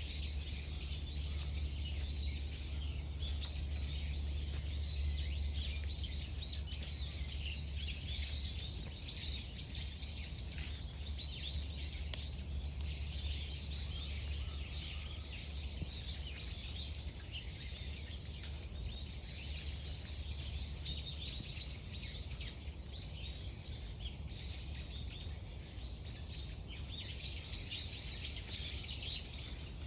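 A chorus of many songbirds chirping and singing at once, dense overlapping calls without a break, over a steady low rumble.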